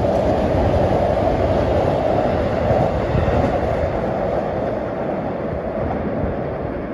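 Electric commuter train passing on the tracks just below: a steady, loud rumble that begins to fade near the end.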